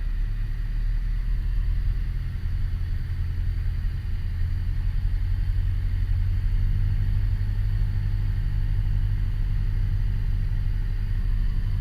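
Piper PA-28 Warrior's four-cylinder Lycoming engine and propeller running steadily with a low drone on final approach to land.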